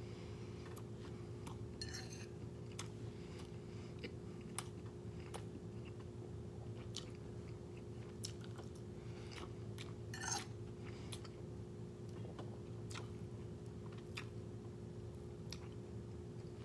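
A person chewing a mouthful of rice, egg and kimchi, with many scattered faint mouth clicks and a couple of short scrapes of a fork in the bowl, over a steady low hum.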